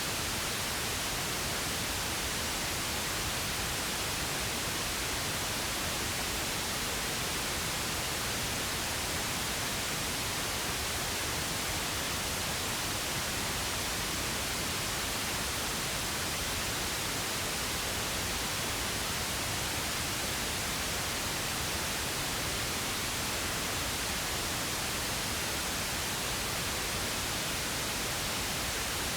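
Steady synthetic pink noise: an even, unchanging hiss spread across the whole range, with no events or variation.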